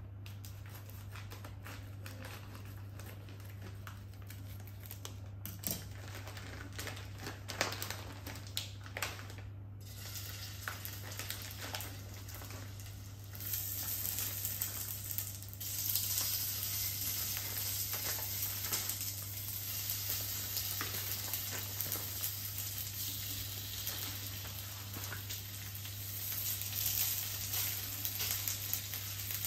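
Frozen gyoza frying in a nonstick pan on a gas hob. Small clicks and knocks come first as the dumplings go in. About thirteen seconds in a hissing sizzle starts, growing louder a couple of seconds later and running on as they fry. A steady low hum sits under it all.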